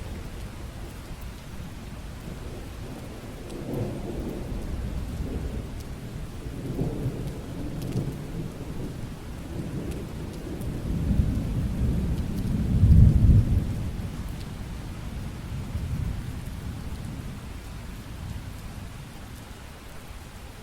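Steady rain falling, with a long roll of thunder that builds from about four seconds in, is loudest around the middle, and dies away well before the end.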